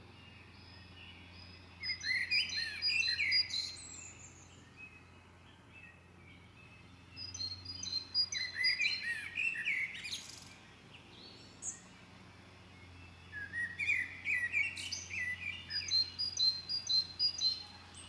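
A songbird singing: three phrases of quick, high chirping notes, each a few seconds long, with pauses of a few seconds between them.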